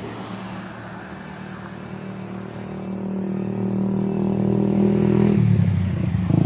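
Heavy truck's diesel engine running hard under load, growing louder over several seconds. About five seconds in its note drops suddenly and turns rougher.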